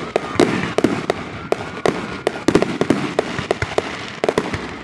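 Fireworks display going off: a rapid, irregular run of sharp bangs and crackles, several a second, over a continuous rumbling wash from the shells bursting.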